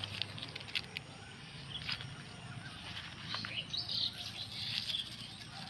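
Small birds chirping in short high calls, mostly in the second half, with scattered clicks and rustles of close handling noise over a low steady rumble.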